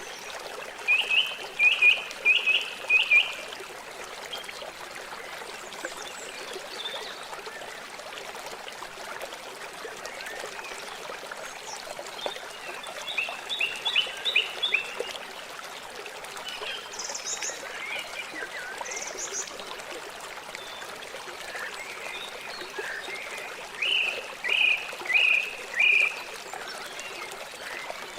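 River water flowing steadily. Over it come short high animal calls in quick runs of four or five notes, heard three times, with a few higher chirps between them.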